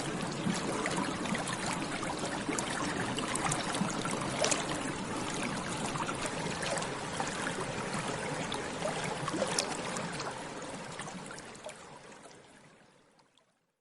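Bubbles rising and popping in water: a continuous bubbling made up of many small pops, fading out over the last few seconds.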